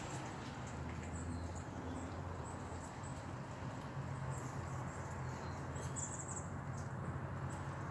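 Steady outdoor background noise with a low hum underneath and a few faint, short, high-pitched chirps from a small animal.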